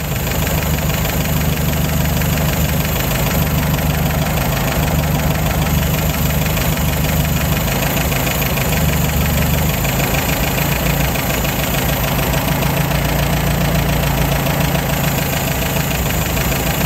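1953 MG TD's 1250 cc XPAG four-cylinder engine idling steadily on its twin SU carburetors while they are being resynchronised, its mixture just set.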